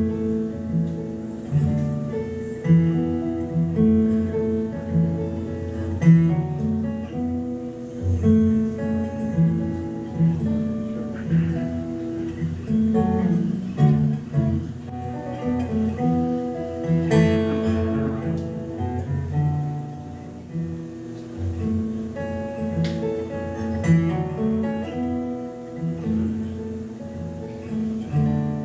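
Acoustic guitar playing an instrumental break: picked bass notes under a melody line, without singing.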